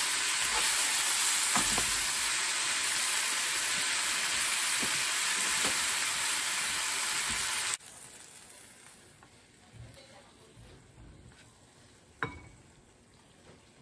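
Sliced bitter melon and fish cake sizzling in a frying pan with miso sauce while chopsticks stir them, with a few clicks of the chopsticks against the pan. The sizzle cuts off suddenly about eight seconds in, leaving a quiet stretch with one sharp tap near the end.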